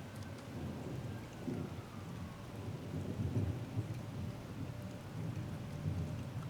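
Thunderstorm: steady rain with a low, rolling rumble of thunder that swells and fades throughout.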